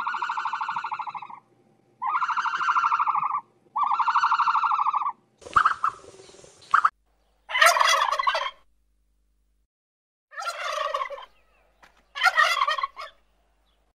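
Turkeys gobbling: three short rattling gobbles in the second half. Before them come three even, buzzy calls of about a second and a half each and a brief hiss.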